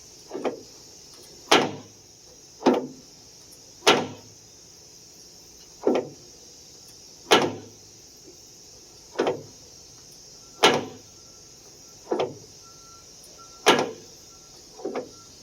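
Acura Legend door check popping as the door is swung, about eleven sharp pops roughly every second and a half, some doubled. The pops come from the check's spring-loaded ball riding over its spring plate with no grease left, the metal polished and worn.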